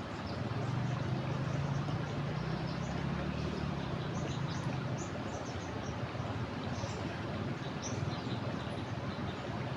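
Steady rush of a river running high in flood, with a low motor hum that fades out about halfway through and small birds chirping now and then.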